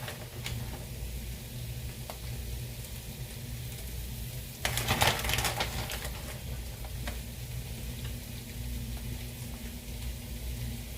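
Faint sizzling of food frying in a pan over a steady low hum, with a few light clicks and a short louder burst of noise about five seconds in.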